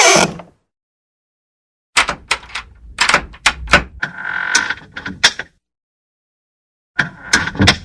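Door being worked on its hinges: a squeal sliding down in pitch cuts off just after the start, then after a pause a run of sharp clicks and knocks with a short creak in the middle, and another quick cluster of knocks near the end.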